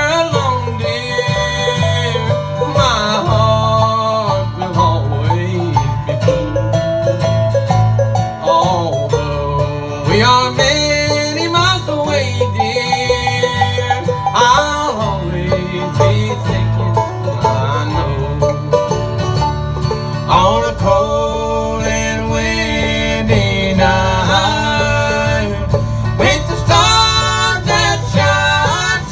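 Live string band playing an instrumental break in a bluegrass-country style, plucked strings over a steady bass, with a lead line that slides between notes.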